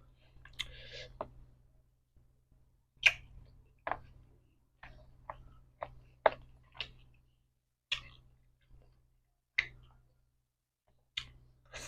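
Eating sounds: about a dozen short, sharp clicks and mouth smacks, spaced irregularly a second or so apart, from someone chewing spicy seafood papaya salad with blood cockles and squid.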